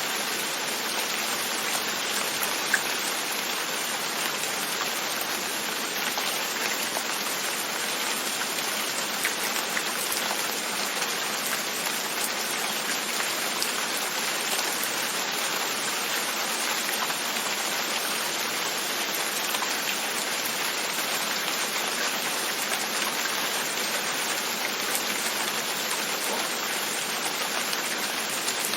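Steady rain on a window, an even hiss of rainfall with scattered light drop taps and one sharper tap about three seconds in.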